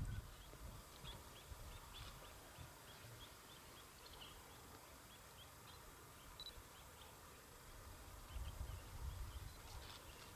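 A small bird chirping faintly, short high notes repeated about twice a second, against a quiet open-air background; a low rumble rises near the end.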